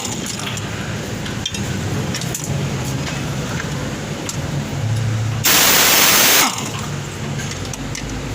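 A pneumatic air tool runs in one burst of about a second, about five and a half seconds in, with a loud steady hiss whose pitch falls away as it stops. Between bursts there is a low workshop hum and a few small metal clicks.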